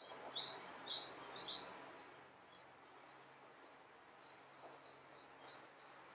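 Small songbirds singing outdoors: a rapid series of short, high, down-slurred notes that is loudest in the first two seconds, then carries on more faintly as repeated chirps over a faint background hiss.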